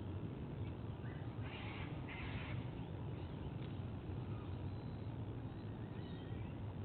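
Two short, harsh bird calls in quick succession about a second and a half in, over a steady low rumble.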